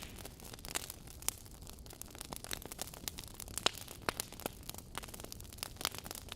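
Wood fire crackling in a fireplace: irregular sharp pops and snaps, a few a second, over a soft steady hiss.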